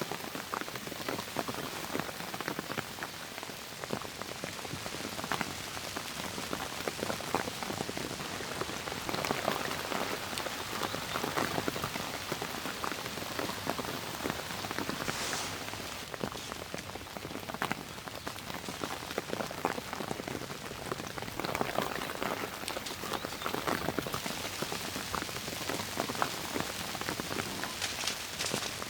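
Steady rain falling, many small drop impacts pattering over a continuous hiss, with a brief brighter hiss about halfway through.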